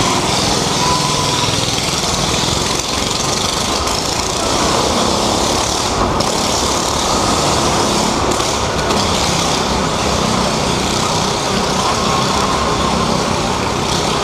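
Engines of a car and a motorcycle riding together around the vertical wall of a wall-of-death drome, running steadily at speed with a constant loud rumble.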